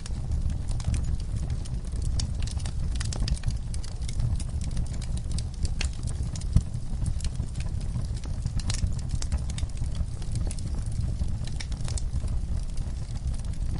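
Campfire crackling: irregular snaps and pops, some sharper than others, over a steady low rumble.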